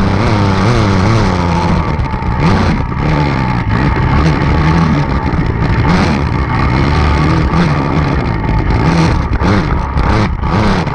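Enduro dirt bike engine revving up and down as it is ridden, its pitch repeatedly rising and falling, with short rushes of noise throughout.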